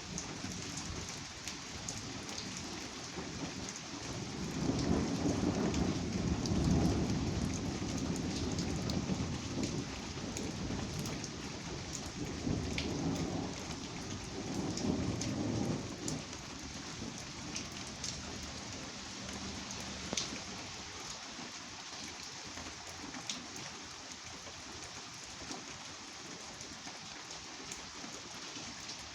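Steady rain falling, with individual drops ticking on a nearby surface. A long low roll of thunder rises about four seconds in, eases and swells again before dying away around the middle.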